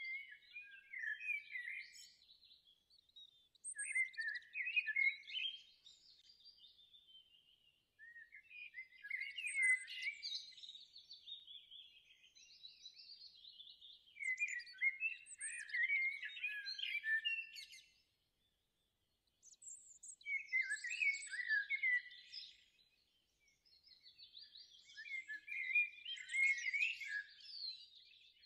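A bird singing in bursts of high, quick twittering, each a few seconds long with short pauses between.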